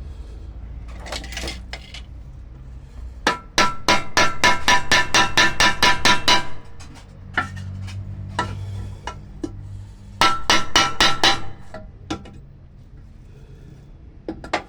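Hammer peening over the rivets on a pressure cooker's aluminium handle, setting them so the handle locks tight: a fast run of about fifteen ringing metal taps, a few single taps, then a second shorter run.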